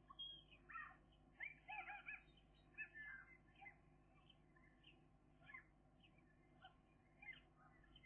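Faint bird calls: many short chirping notes in quick runs, busiest in the first three seconds and sparser after, over a low steady hum.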